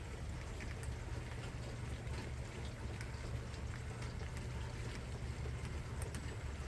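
Light rain falling, with scattered drops ticking, over a steady low rumble.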